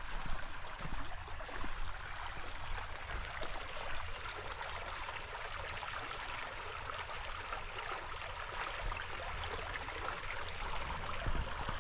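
Rain-swollen creek at peak flow after heavy rain, its water rushing steadily.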